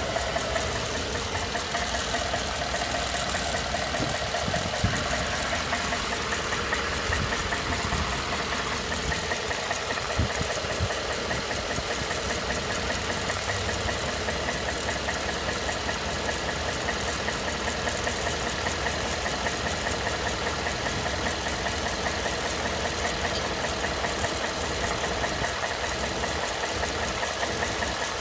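2012 Ford F-150 engine running at a steady speed with an abnormal knock from the passenger side of the engine block.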